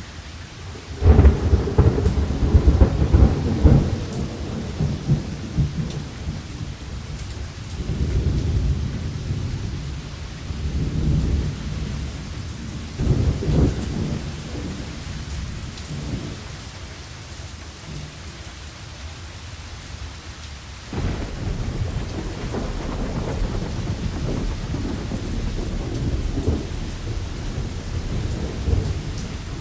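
Thunderstorm with steady rain and deep rolling thunder. A sudden loud crack about a second in rumbles on for a few seconds, several shorter rumbles follow, and a long rolling rumble sets in about two-thirds of the way through.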